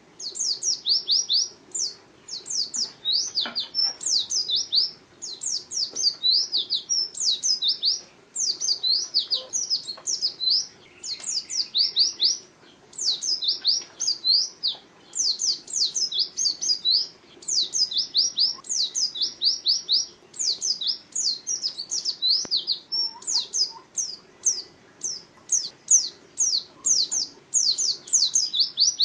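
Pleci (white-eye) songbird singing: long runs of rapid, high, sharply down-slurred chirps, delivered in bursts with brief pauses between them.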